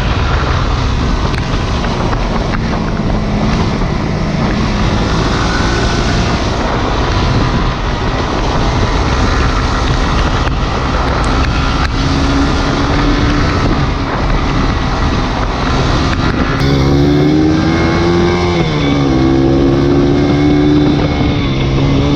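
Single-cylinder sport motorcycle engine running under way, with wind rushing over the microphone. About seventeen seconds in, the engine note comes through louder and clearer, its pitch rising and falling with the throttle.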